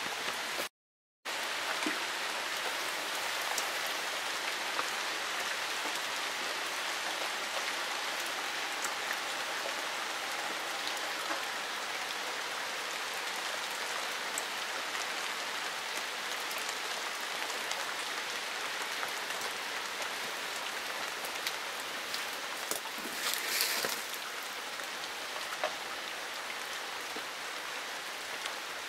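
Steady rain falling on garden plants and wet paving: an even hiss with scattered drop ticks. The sound cuts out completely for about half a second near the start, and there is a brief louder burst of hiss about three-quarters of the way through.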